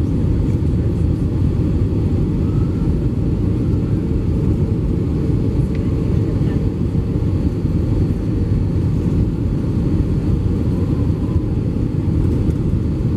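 Steady cabin noise inside an Airbus A320-232: a constant low rumble of its IAE V2500 engines and airflow past the fuselage, with a faint steady hum and no bumps or sudden changes.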